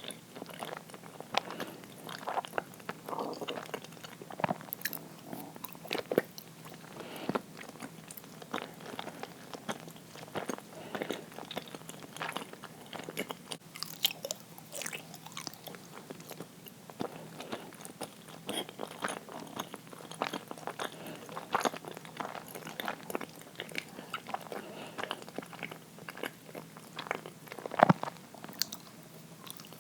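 A person chewing uiro, soft sweet rice jelly, close to the microphone: a steady run of irregular wet, sticky mouth clicks and smacks, with one sharper click near the end.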